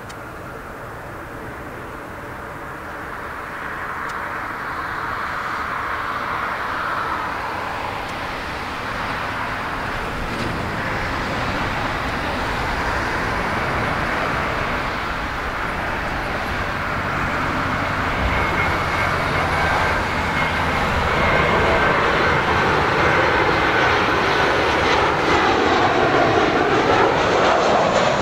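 Jet airliner on final approach to land, its engines growing steadily louder as it comes closer, with a steady high-pitched whine over the engine noise. Near the end the sound takes on a sweeping, phasing quality as the aircraft passes close by.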